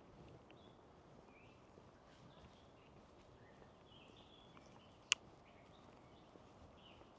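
Faint, scattered bird calls, short chirps coming every second or so, with one sharp click about five seconds in.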